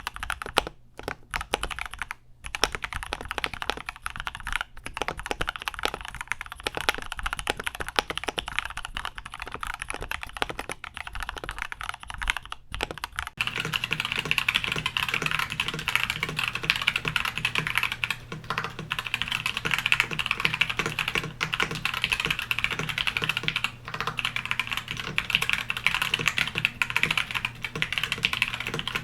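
Continuous fast typing on a mechanical keyboard fitted with Gateron Milky Yellow linear switches. About thirteen seconds in, the sound changes to a louder, brighter, denser clacking with a low hum beneath it, as a different build of the switch is heard: one version is stock and unlubed, the other lubed and filmed.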